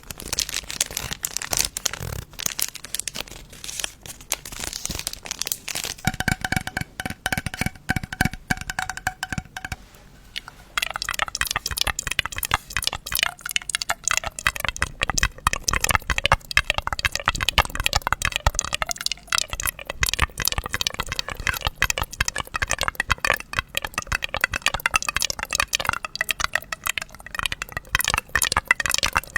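Close-miked paper and plastic crinkling, crackling and tearing, a dense stream of small crackles, as a paper piñata and its candy wrappers are handled. About six seconds in, a held tone sounds for about four seconds.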